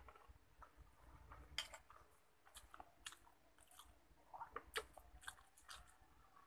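Faint close-up chewing of a mouthful of fried food and rice, small wet clicks and crackles at uneven intervals. The loudest come about one and a half seconds in and just under five seconds in.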